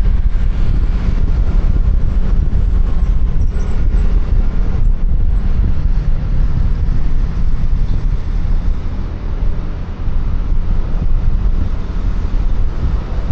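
Wind buffeting a helmet-mounted microphone over the running engine and road noise of a QJMotor Fortress 160 scooter on the move. The loudness dips briefly about ten seconds in.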